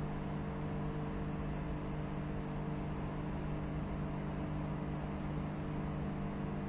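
Steady hiss of heavy rain, with a constant low mechanical hum underneath.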